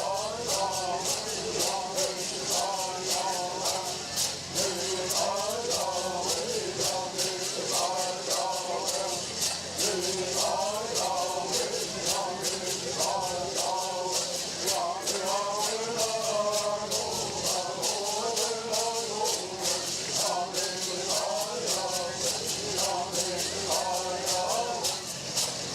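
Bird singing: voices chant phrase after phrase of a bird song over the steady, fast shaking of gourd rattles.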